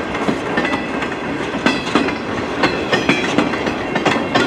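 CN freight train cars rolling past, their wheels clacking over the rail joints in an uneven run of clicks.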